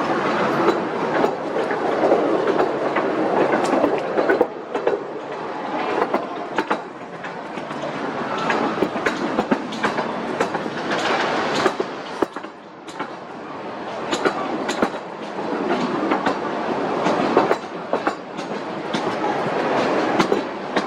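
Vintage amusement-park train rolling along its track, heard from on board: a steady rumble with irregular clicks and clacks as the wheels pass over rail joints, swelling and easing as it goes.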